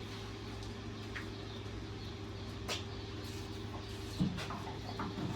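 A few light clicks and a dull knock, about four seconds in, from a radiator being worked back into place in a skid steer. Under them runs a steady low hum.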